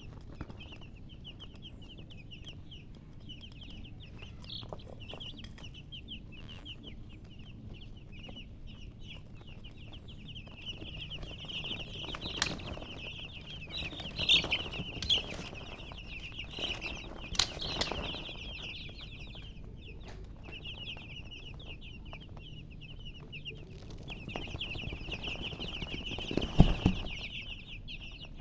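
A brood of baby chicks peeping continuously in a dense stream of rapid high chirps, swelling louder in the middle and again near the end. A few sharp knocks sound among them, the loudest a low thump near the end.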